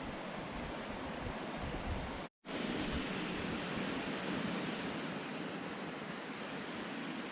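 Steady rushing outdoor noise of wind and flowing river water. It breaks off into a short gap of silence a little over two seconds in, then carries on unchanged.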